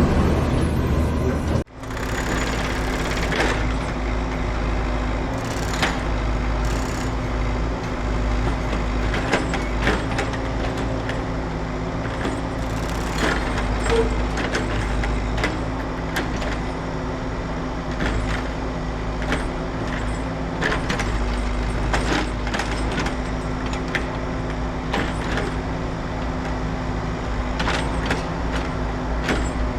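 A motor running steadily with a low hum, with scattered clicks and knocks throughout; there is a brief break in the sound near the start.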